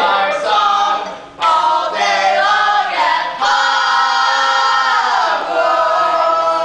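Several voices singing a cappella in harmony, holding long notes, with a brief break about a second and a half in and a pitch slide downward about five seconds in.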